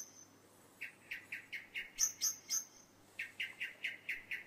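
A birdsong recording played back as a sample: a bird repeats short chirps about four times a second. There are two runs of chirps, with a short break between them a little past the middle.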